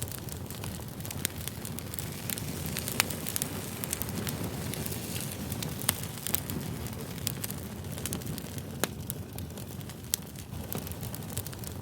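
Campfire crackling: a steady low rush of burning wood broken by scattered sharp pops, a few of them louder than the rest.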